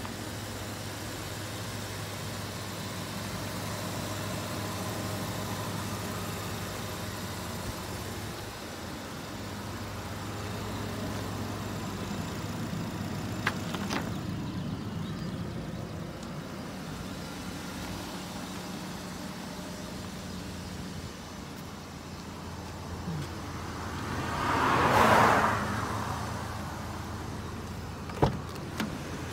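Nissan Tiida's engine idling with a steady low hum. A brief rising and falling whoosh about four seconds before the end is the loudest moment, and near the end the driver's door handle is pulled with a sharp click of the latch.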